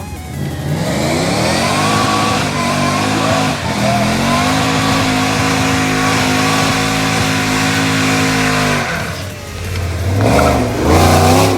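A sports car engine revving up hard, holding high revs for several seconds, then dropping off, followed by a second short burst of revs near the end.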